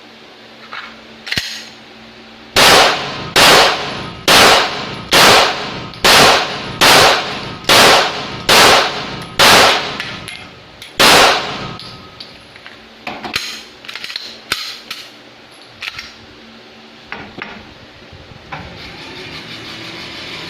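Glock 17 Gen5 9mm pistol firing a string of ten shots, nine in steady rhythm a little under a second apart, then a short pause and a tenth. Fainter shots follow for a few seconds.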